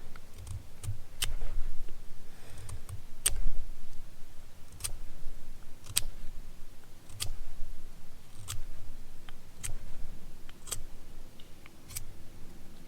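Hand-work noise: sharp clicks about once a second with low knocks and rustling, as something is handled and put together by hand.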